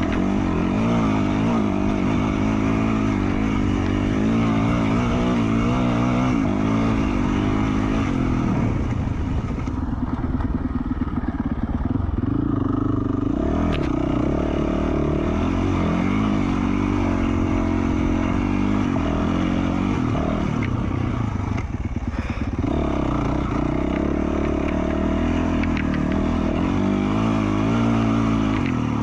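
2020 Yamaha YZ450F's single-cylinder four-stroke engine, with an FMF Q4 slip-on exhaust, running under riding load. Its pitch rises and falls continually as the throttle opens and closes, easing off briefly about ten seconds in and again near twenty-two seconds.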